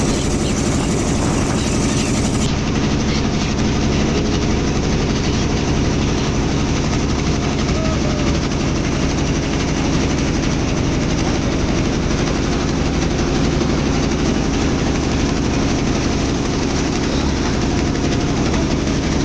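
Boat engine running steadily under way, a constant low drone with no change in speed.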